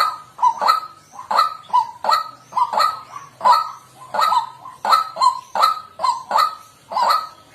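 White-breasted waterhen calling: a continuous run of short, harsh 'kwak' notes, about two to three a second.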